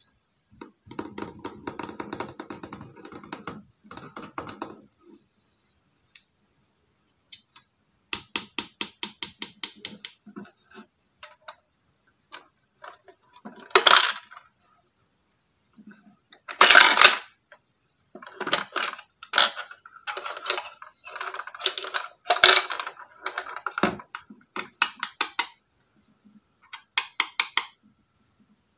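Small plastic toy vending machine being handled and operated: runs of rapid clicking, and two louder short clatters about halfway through.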